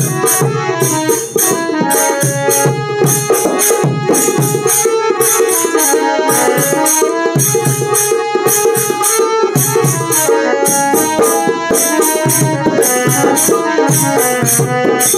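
Instrumental passage of a Marathi bhajan: a harmonium plays the melody over a dholki drum, with jingling percussion keeping a steady beat.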